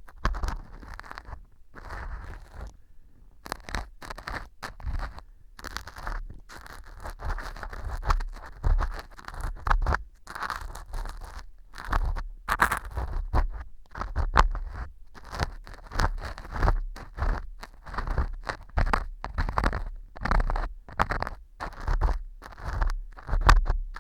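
Metal earpick scraping and crunching pieces of fu (dry baked wheat gluten) stuck on as fake earwax inside an ear model, in short strokes roughly one a second. The fu has soaked up its glue and set hard, so the pick grates against stiff, crusty bits.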